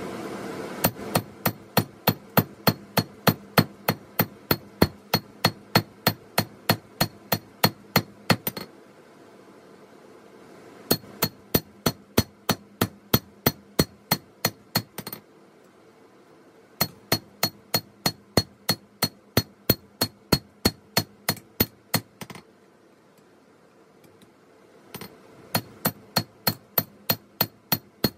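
Forging hammer blows on the steel blade of a 5160 spring-steel machete over an anvil, about three a second, each strike ringing brightly. The strikes come in four runs separated by short pauses. A rushing noise fades out at the start.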